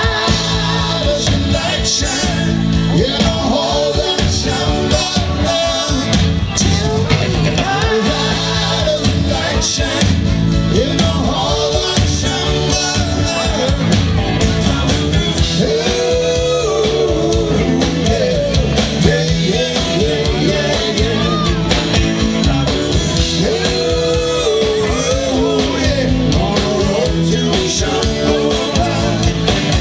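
Rock band playing live, with electric guitar, a steady beat and singing.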